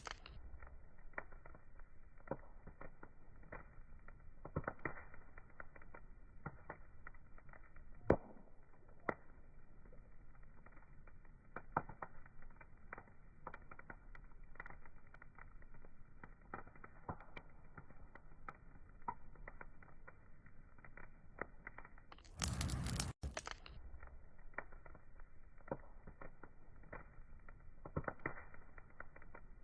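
Wood fire crackling: scattered small pops and snaps over a low hiss, with one sharper pop about eight seconds in. About three-quarters of the way through, a louder burst of hiss lasting under a second cuts in.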